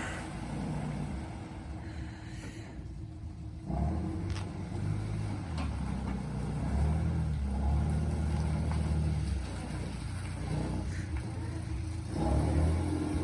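Truck engine running and revving as the truck is backed up, with the engine note rising about four seconds in and again near the end.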